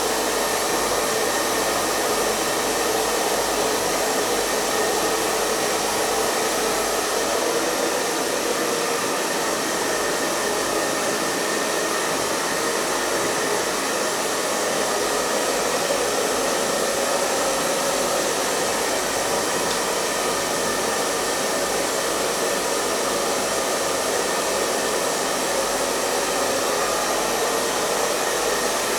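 Hair dryer running continuously: a steady rush of blown air over the hum of its motor, unchanging in level and pitch.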